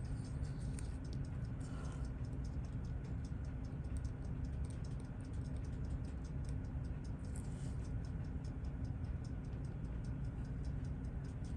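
Steady, rapid, even ticking of a running mechanical timepiece, about five ticks a second, over a low steady hum.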